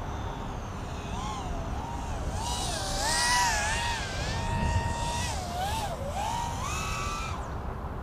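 Cicada 180 racing quadcopter's motors and three-blade DAL T4045 props whining in flight, the pitch rising and falling constantly with throttle. It is loudest and hissiest a few seconds in and fades out shortly before the end.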